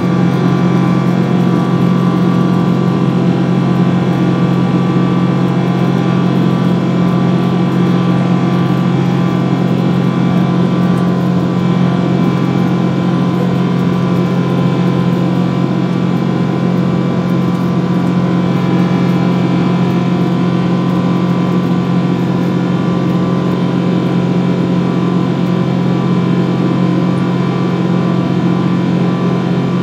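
Boeing 777 jet engines at high thrust heard inside the passenger cabin: a steady, loud drone with several steady tones over it, unchanging throughout.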